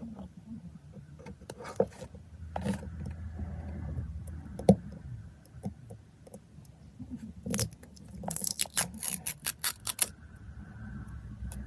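Hands handling a plastic lipstick tube: scattered clicks and taps, then a quick run of about ten clicks near the end.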